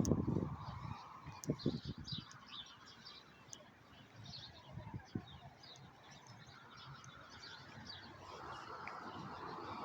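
Birds chirping repeatedly, with a few low thumps in the first two seconds and a broad rushing noise that swells near the end.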